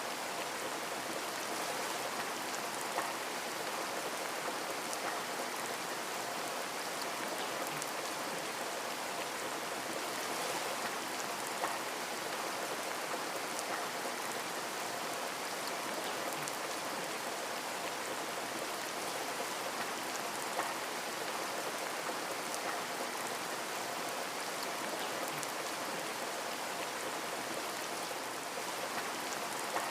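Steady rain with scattered drops ticking, an even hiss with no change in strength.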